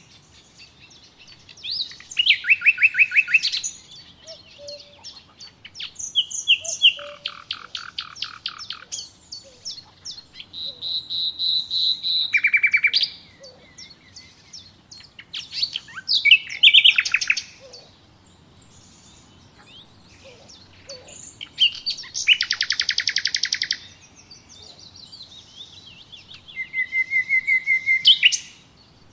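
Songbirds singing: phrases of fast, rapidly repeated chirping notes and trills, one every few seconds with short pauses between.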